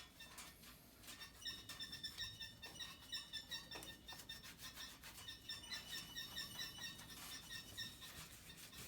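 Rag being wiped back and forth over the metal parts of a B&G Series 100 circulator pump, squeaking in quick, even strokes, several a second, starting about a second in.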